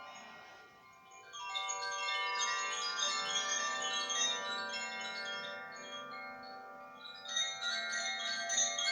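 Koshi chimes, a bamboo tube with tuned metal rods struck by an inner clapper, set swaying into a dense shimmer of many ringing tones about a second and a half in. The ringing fades, then swells again near the end.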